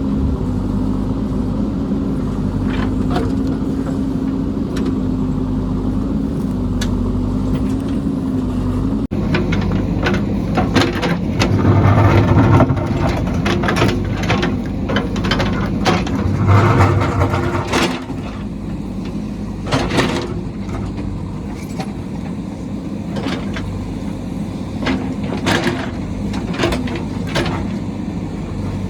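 Heavy construction machine's engine running with a steady hum. About nine seconds in the sound changes abruptly to engine noise with frequent clanks and knocks and two louder surges of the engine.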